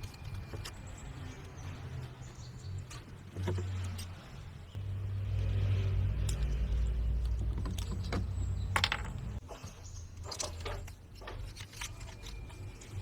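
Scattered clicks and knocks of parts being handled during assembly, over a low rumble that swells for a few seconds in the middle. The sharpest knocks come near the end.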